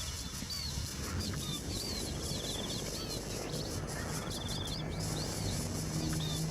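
Small birds chirping: short, high, hooked chirps repeated over and over, with a fast trill twice, over a steady low background noise.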